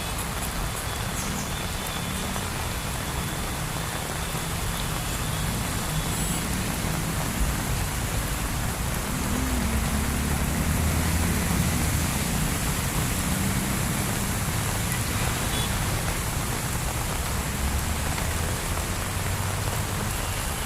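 Heavy rain pouring steadily, with the low hum of vehicle engines in slow traffic that grows stronger about nine seconds in.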